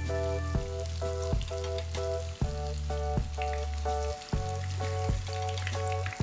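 Tofu and egg patties sizzling as they shallow-fry in oil in a pan, under background music with a steady beat and bass line.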